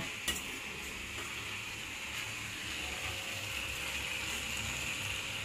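Chopped cauliflower and carrots sizzling steadily in a steel pan over a gas flame. A few faint clicks and scrapes come from the ladle against the pan as the vegetables are stirred.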